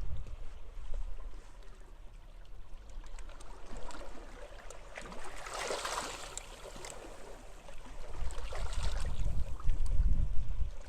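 Waves washing onto a beach, one breaking and hissing up the shore about six seconds in, with a lighter wash near the end. Gusts of wind rumble on the microphone at the start and again in the last few seconds.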